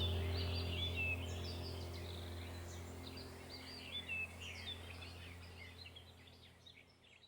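Small birds chirping repeatedly over a low sustained drone that fades out steadily.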